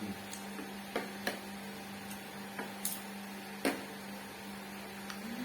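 A few sharp clicks and taps of utensils against dishes or the grill, over a steady electrical hum.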